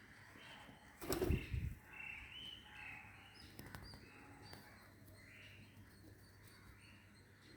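Small birds chirping repeatedly in short, high calls, with a loud low thump about a second in.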